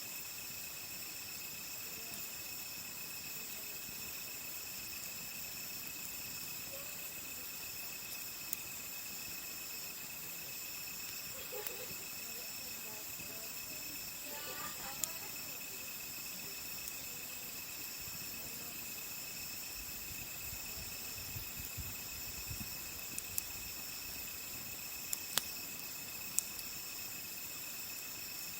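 Steady chorus of crickets singing, their high tones held without a break, with a few sharp pops from a wood campfire.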